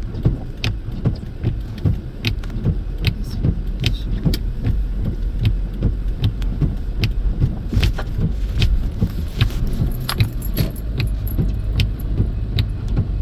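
A car driving slowly up a snow-covered hill: a steady low rumble from the engine and tyres, with frequent irregular sharp clicks and rattles over it.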